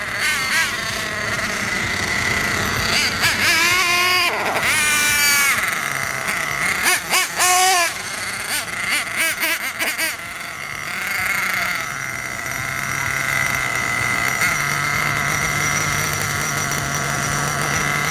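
Small nitro glow engine of a Traxxas Revo RC monster truck running, blipped twice in the first half with quick rising and falling revs, then settling to a steady idle. The engine is being tuned.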